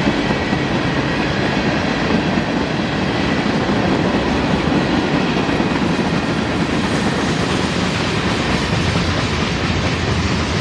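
Railroad cars rolling past on the track, a steady, loud noise of wheels on rail with no change in pace.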